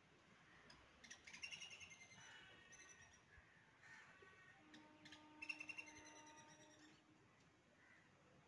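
Faint birds chirping, in two quick runs of rapid repeated chirps: about a second in and again about five seconds in. A faint steady hum sounds under the second run.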